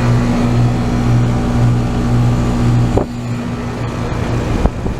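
Trane XR14 5-ton central air conditioner's outdoor unit running, a steady compressor hum under the rush of the condenser fan. There is a sharp knock about three seconds in and a thump near the end.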